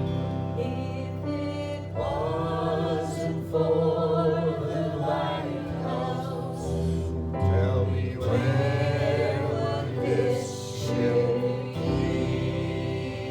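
Gospel song: voices singing together over steady held accompaniment chords. The voices come in about two seconds in and stop near the end, leaving the accompaniment.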